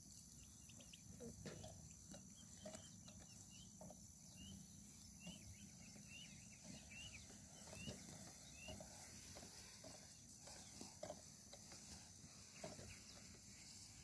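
Near silence: quiet paddy-field ambience with a run of faint, short high chirps from a distant bird midway through, and a few faint soft ticks.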